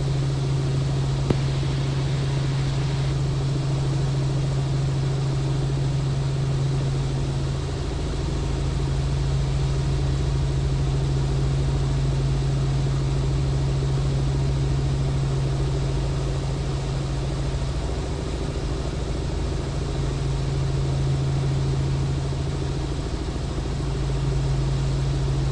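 Robinson R44 helicopter in cruise flight: its engine and rotors make a steady drone with a strong low hum.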